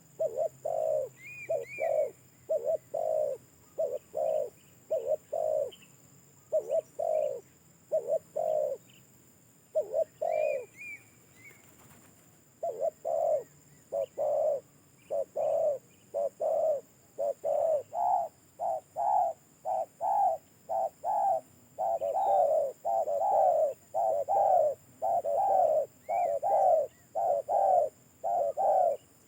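Spotted dove (tekukur) cooing over and over in phrases of short, husky low notes, with a pause about ten seconds in before the phrases come thicker and faster. A smaller bird chirps faintly a few times.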